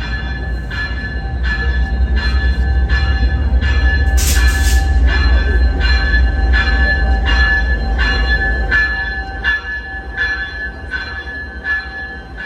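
Diesel passenger train pulling in, its locomotive bell ringing steadily about once every 0.6 seconds over the low rumble of the engine, with a short loud hiss about four seconds in; the rumble eases off near the end.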